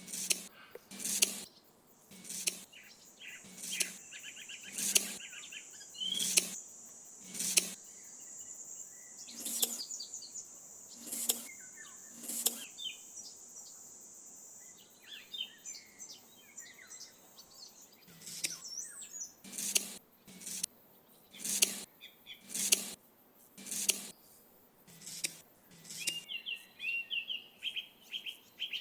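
A series of sharp knocks, about one every second and a bit at first and more irregular later, with birds chirping between them.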